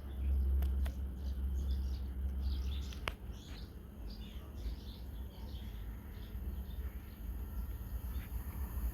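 Small birds chirping and twittering repeatedly, over a low rumble that eases about three seconds in.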